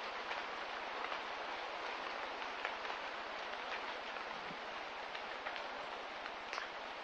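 Steady hiss of light rain with scattered faint drips ticking through it.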